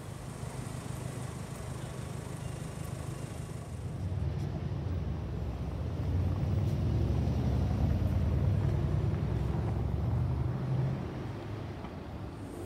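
Low motor-vehicle engine rumble that swells about four seconds in, holds for several seconds, then eases off near the end.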